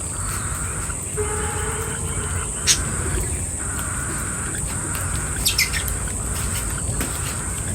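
Birds chirping in short sharp calls, a couple of them standing out about a third of the way in and again past the middle, over a steady high-pitched buzz.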